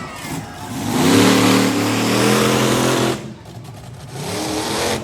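Monster truck engine revving hard for about two seconds, then dropping back sharply, with a shorter, quieter rev near the end.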